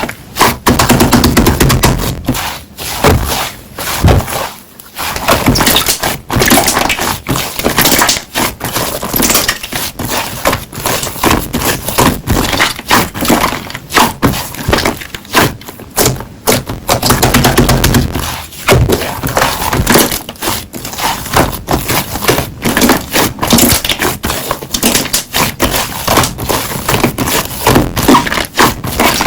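Slime being squeezed and pressed by hand, with a dense, continuous run of crackling pops.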